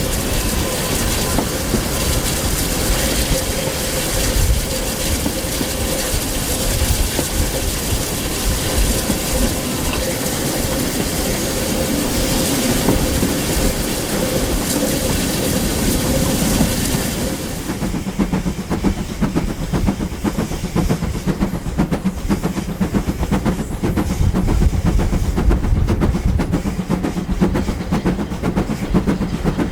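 Steam-hauled heritage train running along the line, a steady rushing noise with a held tone. About two-thirds of the way through it changes to a denser, rapid clatter.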